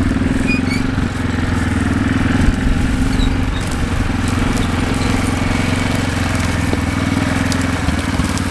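A vehicle engine running steadily close by at a constant pitch.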